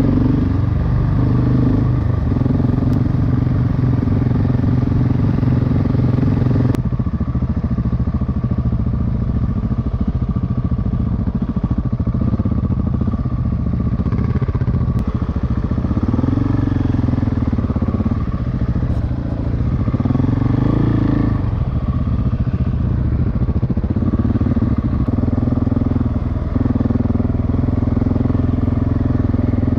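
Single-cylinder dual-sport motorcycle engine, the 693 cc LC4 single, running continuously under way. Its pitch rises and falls a few times as the throttle changes, and the sound changes abruptly about seven seconds in.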